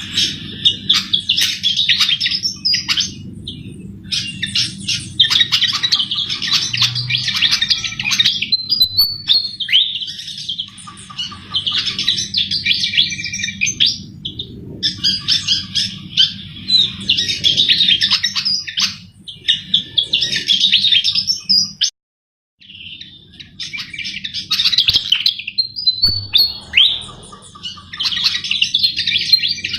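A sikatan jawa flycatcher in continuous full song: rapid, high twittering phrases of one to three seconds each, with short pauses between them, over a steady low hum. The sound drops out completely for a moment about two-thirds of the way through.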